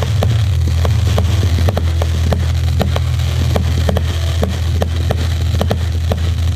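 Fireworks crackling and popping, with many sharp irregular snaps a second over a loud steady low rumble.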